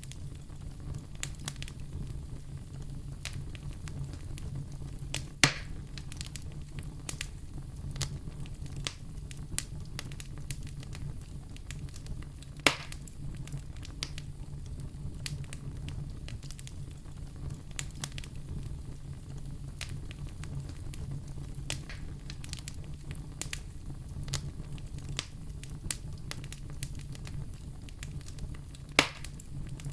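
Fireplace fire crackling over a steady low rumble, with many small crackles and three louder pops, about five, thirteen and twenty-nine seconds in.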